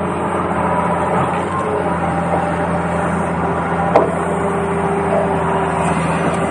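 Radio-controlled toy excavator running: a steady hum from its small motors over a rough grinding noise, with a single sharp click about four seconds in.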